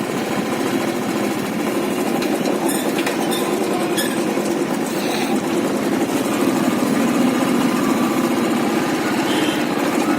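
Motorcycle engine running steadily under way, a fast even chug of firing pulses with road and wind noise.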